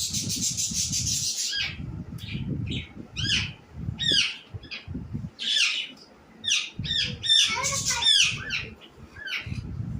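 A bird calling repeatedly: a harsh, hissing screech for the first second and a half, then a string of short, high chirps that sweep downward, some in quick clusters, with a low uneven rumble beneath.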